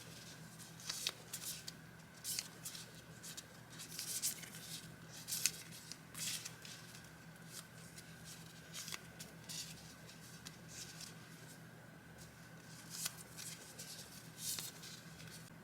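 Sheets of vintage paper being handled and shuffled by hand, crisp rustles and light taps coming in irregular bursts. A faint steady hum runs underneath.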